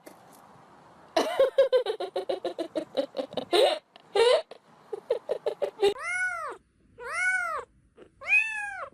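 A cat calling: a fast run of short, clipped mews, about seven or eight a second, then three long meows about a second apart, each rising and then falling in pitch.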